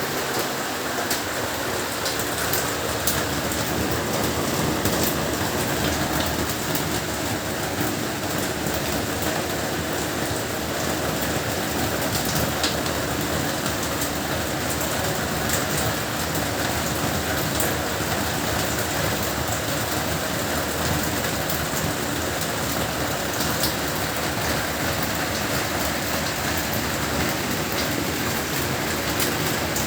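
Heavy rain falling steadily, a dense even hiss with scattered sharp ticks of individual drops.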